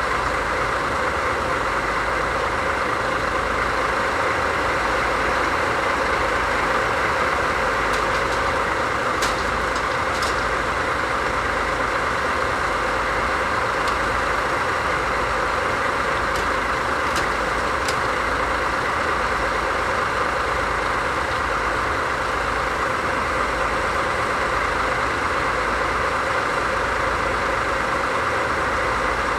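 DD51 diesel-hydraulic locomotive's V12 diesel engine idling steadily, with a few faint clicks.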